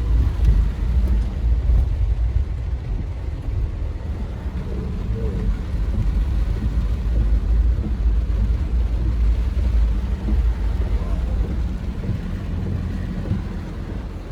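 A vehicle's engine running, a steady low hum as the vehicle moves along; it eases off slightly near the end.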